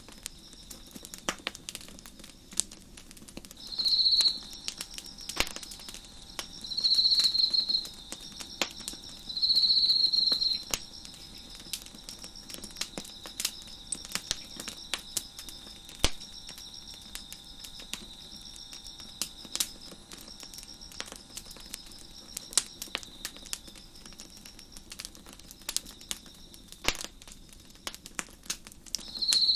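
Wood fire crackling with frequent sharp pops and snaps, over a steady chorus of chirping crickets. A nearer cricket trills loudly three times in the first ten seconds or so, the loudest sounds here.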